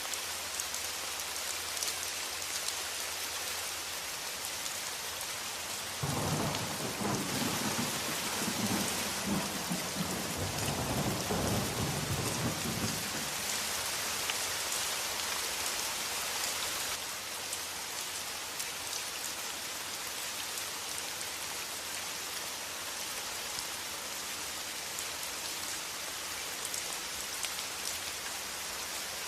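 Steady heavy rain hiss, with a low rumble of thunder rolling in about six seconds in and dying away about halfway through. A second rumble begins right at the end.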